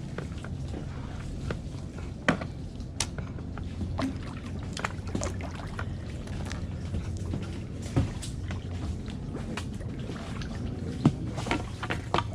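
Kayak paddling: water splashing and dripping from the paddle blades, with scattered sharp knocks and clicks, the loudest about eleven seconds in, over a steady low rumble.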